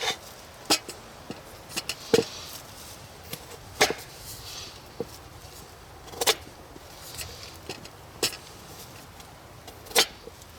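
A knife chopping potatoes and carrots, giving separate sharp knocks every one to two seconds.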